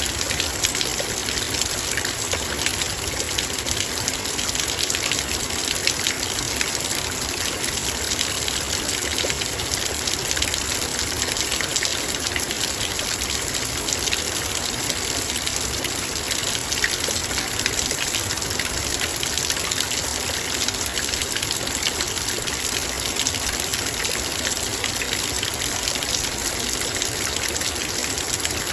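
Heavy, steady rain, with dense raindrops striking a metal bowl as a continuous hiss of fine ticks.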